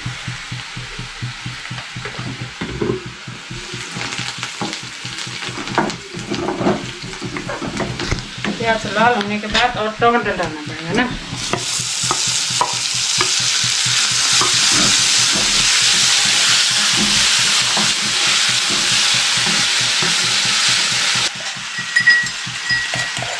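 Spatula scraping and stirring onion and spices around a wok in quick strokes. About halfway through, chopped tomatoes go into the hot oil and set off a loud, steady sizzle that cuts off abruptly near the end.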